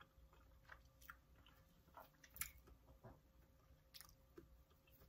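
Faint chewing close to the microphone, with a handful of soft, scattered mouth clicks, from someone eating a pig in a blanket.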